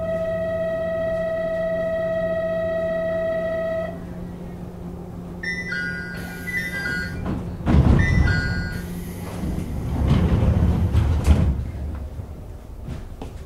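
JR 101-series electric train standing at a station: a steady electronic departure tone rings for about four seconds, then a short run of electronic beeps, then several heavy thuds of the doors sliding shut, over the car's steady low hum.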